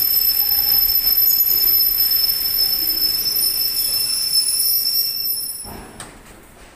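Passenger train at a station platform with a steady high-pitched whine over its general din, cutting off with a click about six seconds in.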